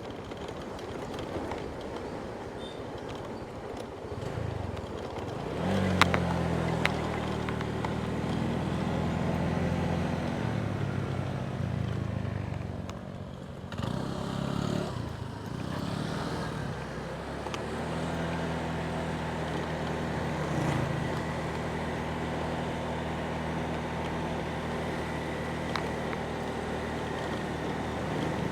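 Motorbike engine running while riding, its pitch rising and falling as it speeds up and eases off, then holding steady in the second half. Two sharp knocks come about six to seven seconds in, and the engine drops away briefly around thirteen seconds.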